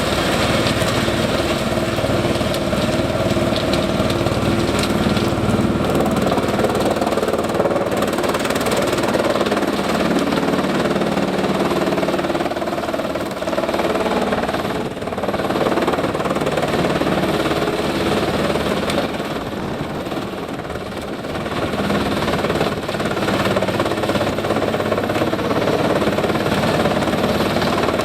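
Scania diesel engine of a Gandini Meccanica industrial wood chipper running steadily under power, with a heavy knocking mechanical rumble. The level dips briefly about halfway through and again around two-thirds of the way in.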